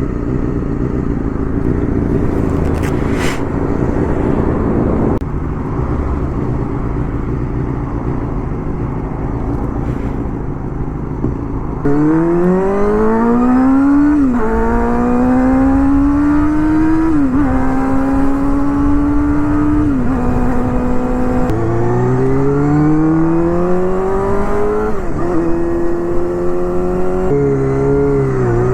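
Honda Hornet 250's inline-four with an aftermarket Pretty Racing exhaust, running steadily at first, then about twelve seconds in accelerating hard through the gears, its pitch rising in each gear and dropping back at each of several upshifts.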